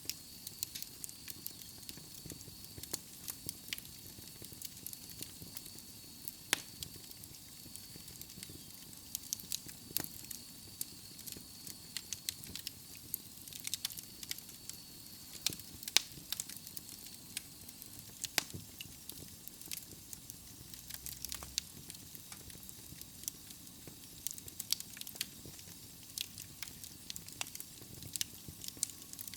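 Wood fire in a fireplace crackling and popping at irregular intervals over a soft steady hiss.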